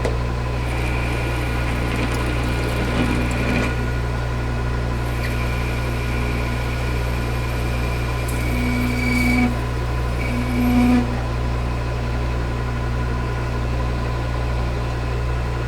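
Lathe running steadily while a boring bar takes a light finishing cut inside a bore. The cut adds a thin tone over the machine's hum, from about a second in to about four seconds, and again from about five to eleven seconds.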